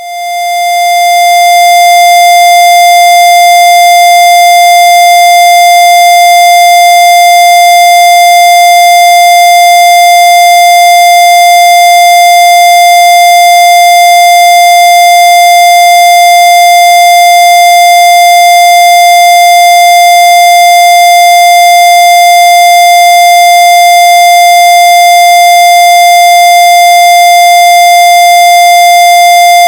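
A loud, steady electronic tone at one unchanging mid-high pitch, fading in over the first second or two and then holding without a break.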